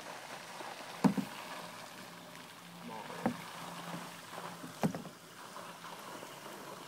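Water lapping and sloshing around a sinking cardboard boat, with three sharp knocks about a second apart and more, and a faint low hum in the middle.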